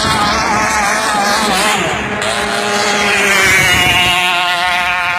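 Two-stroke Kawasaki KR engine of a river racing boat running at high revs. Its pitch wavers for the first couple of seconds, then rises and holds a steady high note from about three seconds in.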